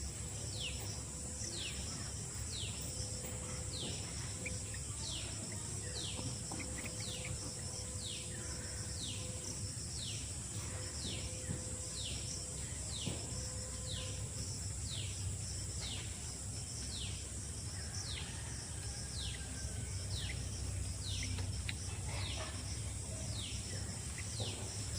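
A bird repeating a short, falling whistled note about once a second, over a steady high insect drone.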